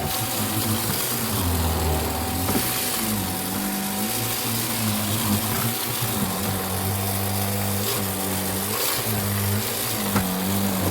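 Vacuum cleaner running steadily, its motor hum dropping and rising in pitch again and again over a constant rushing airflow.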